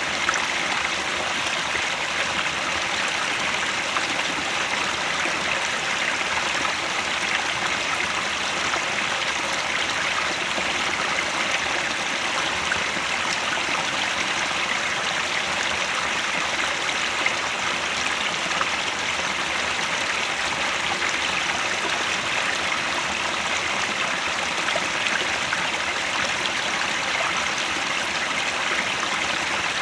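Headwater stream flowing steadily: an even, continuous rush of running water.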